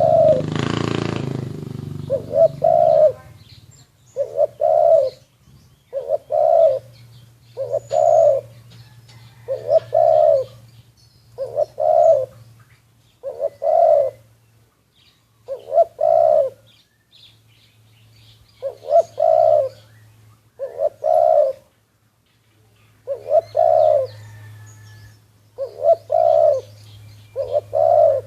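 Spotted doves cooing over and over, short low coos about a second apart with a couple of brief pauses. A faint steady low hum runs underneath, and a short rushing noise comes in the first second or two.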